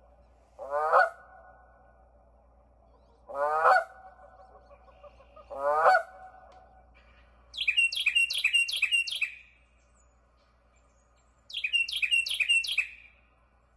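Birds calling: three short honking calls, each a rising stack of pitches, then two quick runs of about five high chirping notes each.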